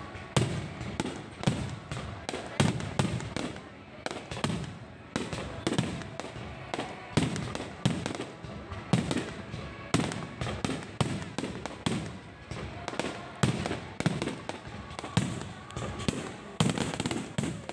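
Low-altitude fireworks going off in a rapid, irregular string of sharp bangs and low thumps, several a second.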